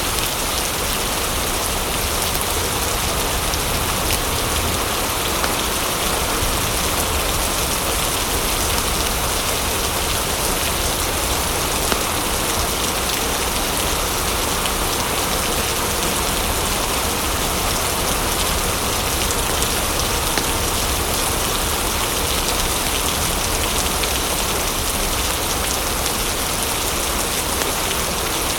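Steady rain falling: a continuous, even hiss with occasional small ticks.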